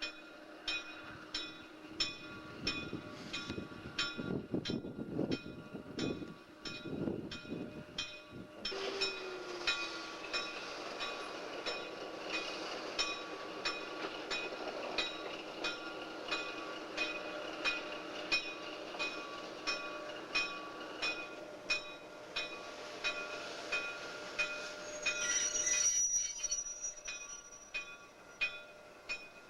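A locomotive pulling empty coal hopper cars rolls past slowly, its wheels clicking over the rail joints at about two clicks a second. There is a steady high squeal from the wheels, and a brief higher whine near the end.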